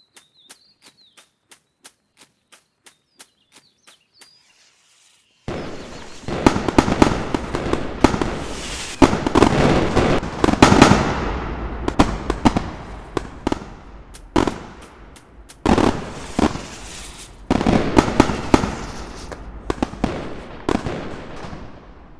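Firecrackers going off: after a run of faint, evenly spaced clicks, a loud burst of rapid bangs and crackling starts suddenly about five seconds in and goes on in several waves before dying down near the end.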